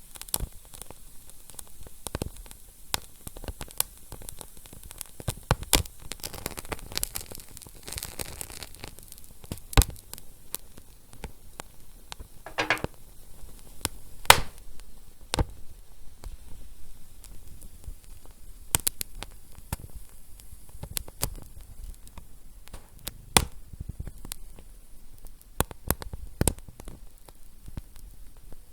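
Fire crackling: irregular sharp pops and snaps over a soft steady hiss, with a brief swell of hissing about seven to nine seconds in.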